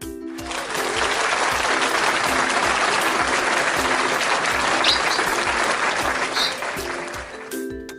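Applause, a dense wash of clapping that swells in about half a second in and fades away near the end, over background music.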